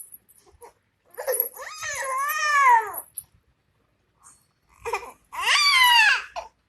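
Kitten meowing: two long, drawn-out meows, each rising then falling in pitch, the second starting about five seconds in.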